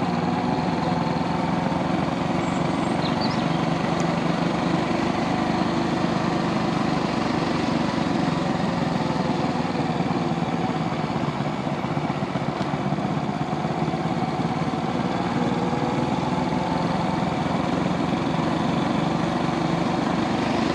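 Brixton Felsberg 250's single-cylinder engine running steadily as the motorcycle is ridden along at a moderate pace. The engine note eases slightly about eleven seconds in.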